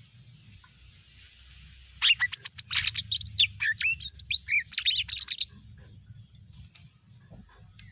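Green leafbird (cucak ijo mini) singing one burst of about three and a half seconds: quick, varied chirps and sweeping whistled notes, starting about two seconds in, with a faint low hum underneath.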